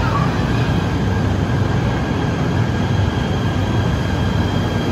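A KTM Malaysian railway electric train arriving at the platform: a steady, loud rumble with a faint high-pitched whine running over it.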